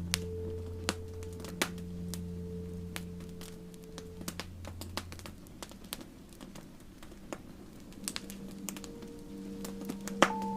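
Campfire crackling with scattered sharp pops, over soft, sustained ambient music tones that fade out about halfway and return near the end.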